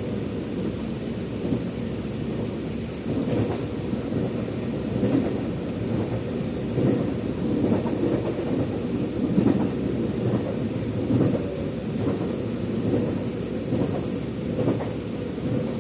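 Metro train running, heard from inside the car: a steady low rumble of the wheels on the track, with a light clack every second or two.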